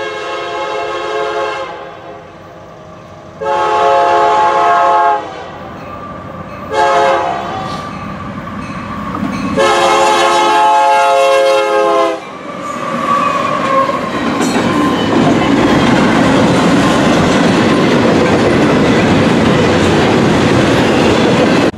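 Union Pacific diesel locomotive's chord horn sounding four blasts, long, long, short, long: the standard grade-crossing signal. The train then rolls past close by, a loud steady rush with wheel clatter from the double-stack container cars.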